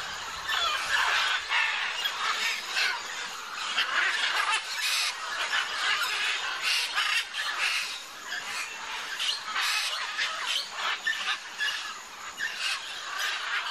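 A large flock of macaws squawking, many harsh calls overlapping in a continuous din.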